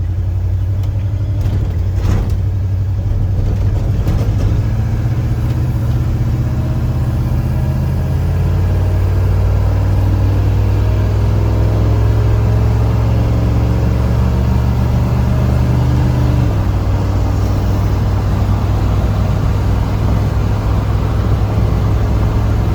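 1979 Ford pickup truck's engine pulling on the road. Its note climbs gradually over the first several seconds and holds, then drops suddenly about two-thirds of the way through and runs on steadily at the lower pitch.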